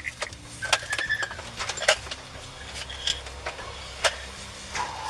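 Low steady vehicle hum with scattered clicks and knocks and a couple of short beeping tones, about a second in and near the end.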